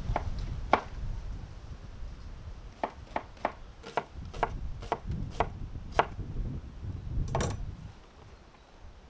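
Knife chopping on a wooden cutting board: a run of sharp, uneven strokes, with one longer scraping stroke near the end, over a low outdoor rumble.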